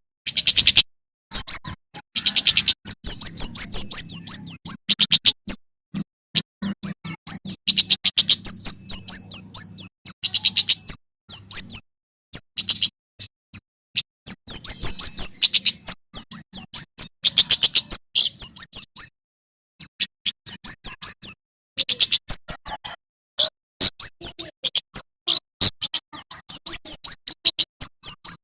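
Male prenjak keres (kemade) singing: rapid strings of sharp, high chirping notes in repeated bursts, broken by short pauses.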